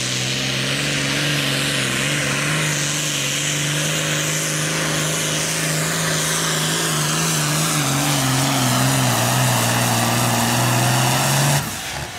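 Super Farm-class John Deere pulling tractor's engine running hard under load as it pulls the sled. Its pitch sags a little past the middle as the load builds, then the sound cuts off suddenly near the end.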